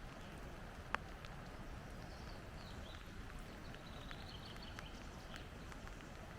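Quiet outdoor ambience: a steady low rumble with faint high bird calls in the middle. There is a single sharp click about a second in and scattered light ticks.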